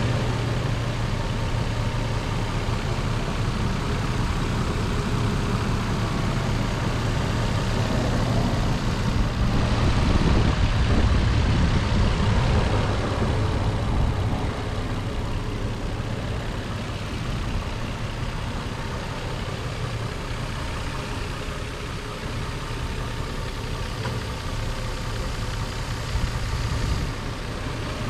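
2015 Nissan Xterra Pro-4X's 4.0-litre V6 idling steadily, a little louder for a few seconds about ten seconds in.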